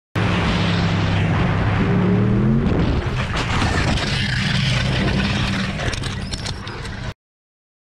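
Motorcycle engine running under heavy wind noise on an action camera, its pitch rising briefly about two seconds in; from about three seconds on, scattered knocks and clicks over the engine until the sound cuts off suddenly.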